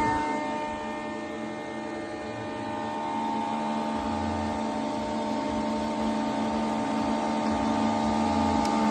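SCM S50 four-knife thicknesser running, a steady machine whine and hum with several fixed tones. It drops in loudness in the first second or so, then slowly grows louder.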